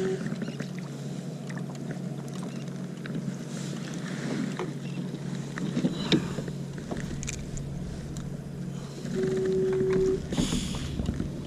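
Sounds of a fishing kayak on the water: scattered knocks and clicks from gear and hull over a steady low hum. A short steady tone sounds about nine seconds in, and a brief rush of water-like noise follows.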